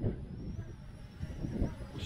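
Wind buffeting the microphone in a low, gusty rumble. Over it is a faint, steady high whine from the small brushless quadcopter drone's motors and propellers as it flies.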